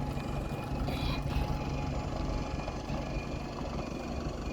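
Bus diesel engine running with a steady low rumble, with a faint high beep repeating every second or so, typical of a reversing alarm.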